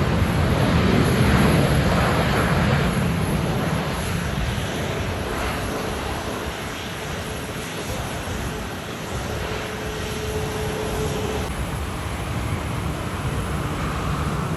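Jet engines of a Boeing 787-10 airliner after landing: a loud, steady engine noise that is strongest at first and fades over several seconds, then changes abruptly at a cut.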